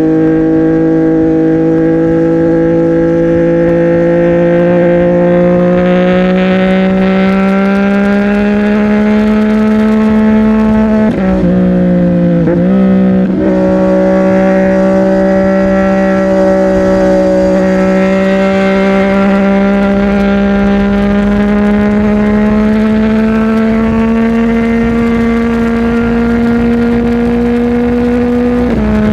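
CFMOTO 675NK's inline-three engine through a Burnout titanium aftermarket exhaust, riding at steady, slowly climbing revs. About eleven seconds in the revs drop and wobble for a couple of seconds, then settle back to a steady cruise, dropping again right at the end.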